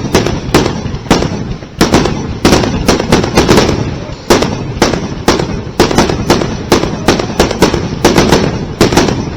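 Aerial fireworks bursting in a rapid barrage: loud sharp bangs, several a second, one on top of another, with crackling in between.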